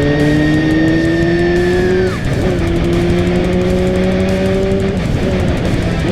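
Motorcycle inline-four engine accelerating hard, its pitch climbing through the gears with an upshift about two seconds in and another drop near five seconds.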